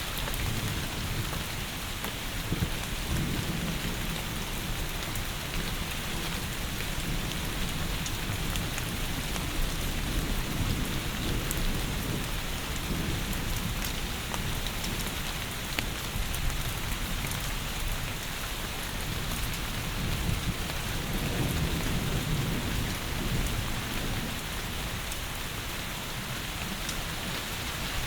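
Heavy rain falling steadily, with low rolls of thunder swelling and fading a few times.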